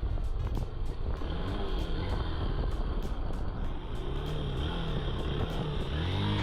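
Motorcycle engine running under way, its revs rising and falling several times.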